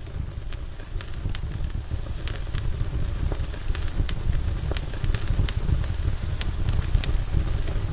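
Wood campfire burning: frequent sharp crackles and pops over a steady low rumble, growing louder over the first couple of seconds.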